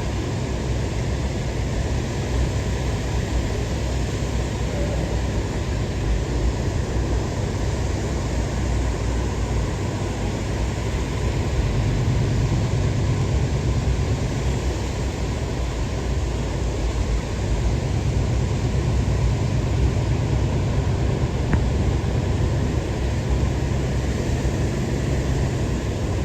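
Steady driving noise from inside a 1980s Ford Bronco: a low rumble of engine and tyres under an even hiss of wind and road noise.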